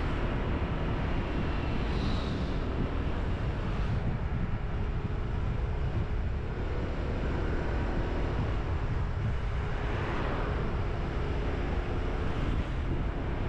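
Motorbike riding along, its engine a faint steady hum under heavy wind rumble on the action camera's microphone.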